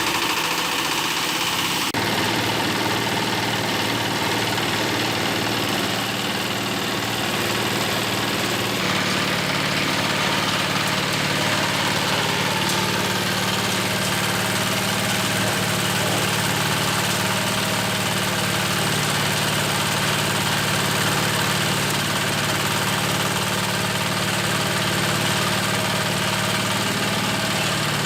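Engine-driven organic-waste chopper machine running steadily, its fuel engine and chopping drum giving a continuous mechanical drone. The engine note shifts slightly about two seconds in and again about nine seconds in.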